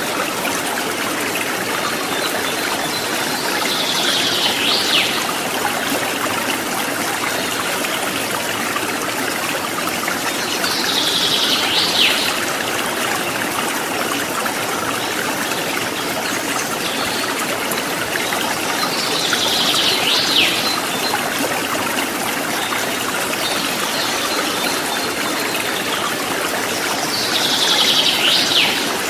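Stream water trickling and babbling steadily. A short high call sounds four times over it, about every eight seconds.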